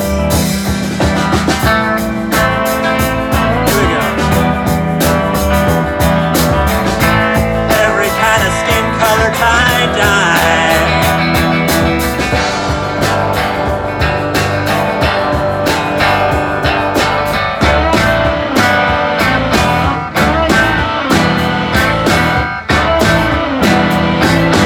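Live rock band playing an instrumental passage: electric guitar over bass and steady drum and cymbal hits, with no singing.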